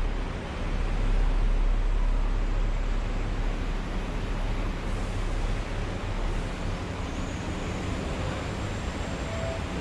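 Star Ferry underway: a steady low engine rumble under an even rush of water and wind noise.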